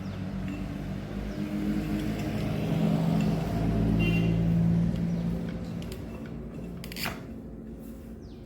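A small engine running, with a low, steady pitch. It swells louder through the middle and then fades away, with a sharp click near the end.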